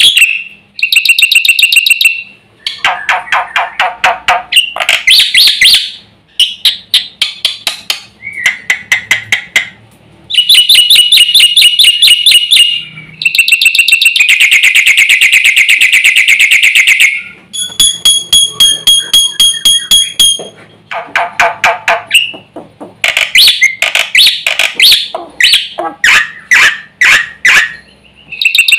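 Black-winged myna (jalak putih) singing loudly in full voice. It gives a varied run of phrases, rattles, rapid repeated notes and whistles, a few seconds each, with short pauses between them, the song packed with mimicked phrases (isian).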